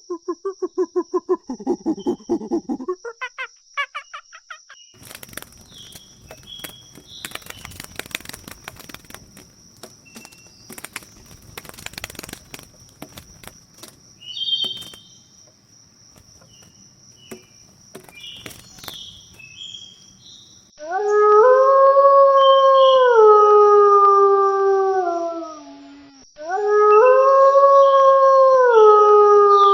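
Wolf howling twice: two long howls of about five seconds each in the second half, each rising slightly and then falling away in pitch. Before them come a rapid pulsed call in the first few seconds, then scattered clicks and short high calls.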